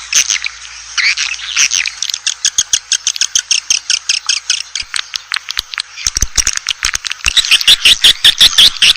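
Swiftlets twittering: a dense chatter of rapid high chirps and clicks that grows thicker and louder about seven seconds in. It is a swiftlet call recording of the kind played to lure swiftlets to a nesting house.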